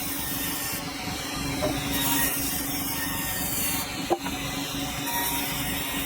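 Sawmill running: a steady hum under a hissing, rasping noise of the saw in hardwood that swells and eases every second or so, with one sharp click about four seconds in.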